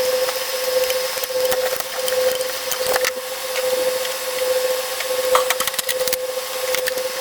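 Stuck spark plug wire boots being twisted and pulled off the engine: a rough crackling and creaking with scattered clicks, over a steady high hum.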